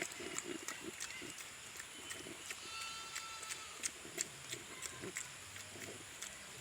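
Pigs grunting, a run of short repeated grunts, with scattered sharp clicks.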